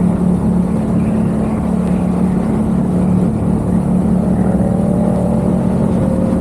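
Yamaha XSR700's parallel-twin engine with a Mivv aftermarket exhaust, running steadily under way, then rising in pitch as it accelerates over the last couple of seconds.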